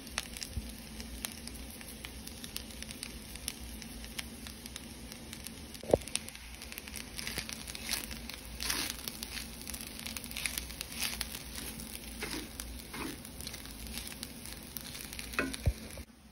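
Fried rice sizzling in a cast iron skillet, with crackles throughout. There is one sharp knock about six seconds in, then repeated scraping strokes of a utensil stirring the rice against the pan.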